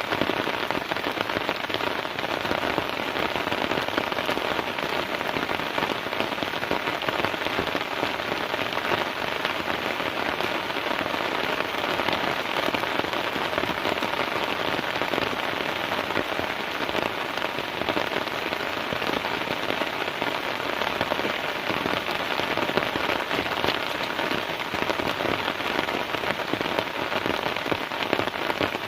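Heavy rain falling steadily, a dense, even hiss of countless drops striking a surface.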